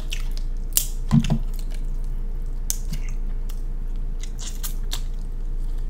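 King crab leg shell being cracked and pulled apart by hand: scattered short sharp cracks with wet squishing as the meat is exposed.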